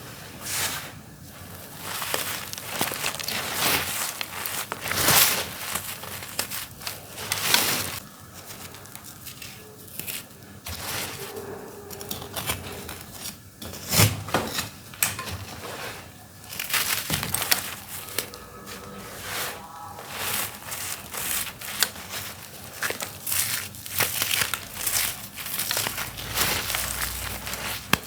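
Dry, crunchy dirt clumps being crushed and crumbling, in dense, irregular crackles and gritty crunches that come and go in quick bursts.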